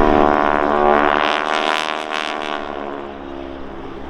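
Propeller biplane flying past, its engine note loudest about a second or two in, then dropping in pitch and fading as it goes by.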